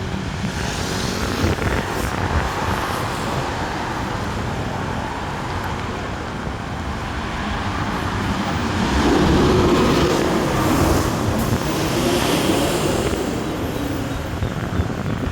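Steady road traffic noise, swelling a little louder about two-thirds of the way through as a vehicle goes by.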